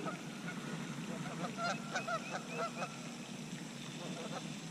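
Faint bird calls: a quick run of short honking notes starting about a second and a half in, with a few more near the end.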